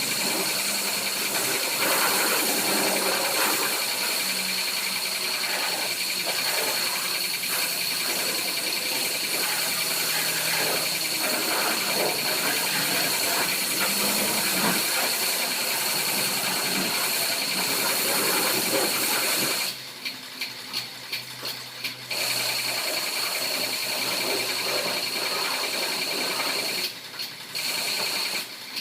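High-pressure washer spraying water in a steady hiss, cutting out twice near the end.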